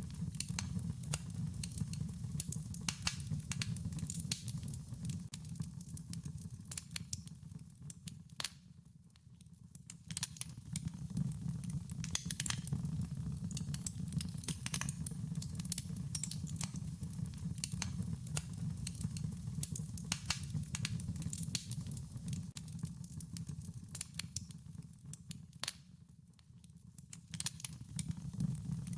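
Wood fire crackling: irregular sharp pops and snaps over a steady low rumble of the flames. It dips briefly quieter twice, about a third of the way in and again near the end.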